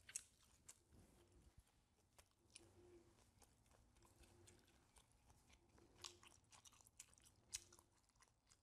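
Faint chewing of a bite of sliced tri-tip beef, with a few soft mouth clicks over near silence.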